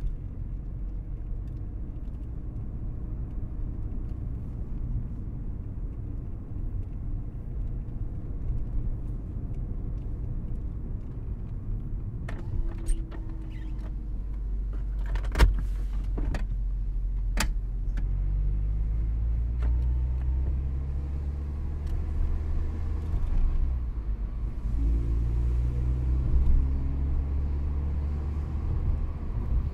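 Mazda MX-5 Miata's four-cylinder engine and road noise heard from inside the cabin while driving, a steady low rumble. A handful of sharp knocks come a little past the middle, and in the latter part the engine note rises several times as the car accelerates.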